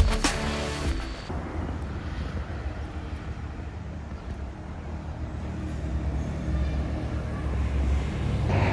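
Background music cuts off about a second in, followed by a steady low rumble of motor vehicles.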